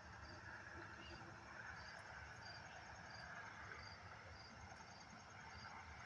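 Faint chorus of night insects: a regular high chirp about twice a second over a steady, fast, high-pitched trill, with a low background rumble.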